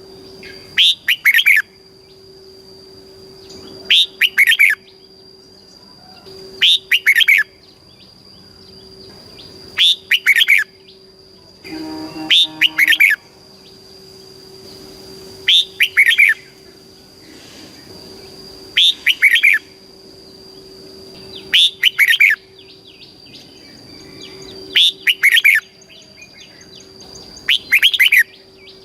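Red-whiskered bulbul singing short, loud, warbling phrases, about ten of them, repeated every three seconds or so. This is the kind of song recording that is played to caged bulbuls to stir them up and teach them song.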